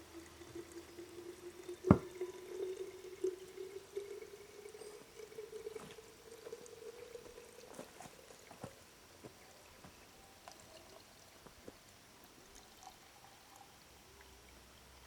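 Liquid pouring into a small container, its pitch rising slowly as the container fills, then stopping. There is a sharp knock about two seconds in and a few light clicks later.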